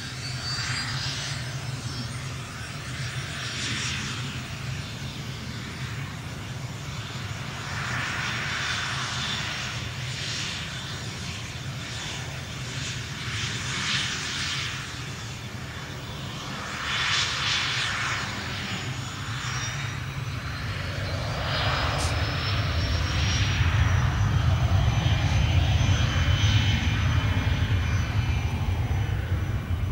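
Cessna 501 Citation business jet's twin turbofans whining steadily with a low rumble underneath. About two-thirds of the way through the whine rises in pitch as the engines spool up, and the rumble grows louder, as for takeoff power.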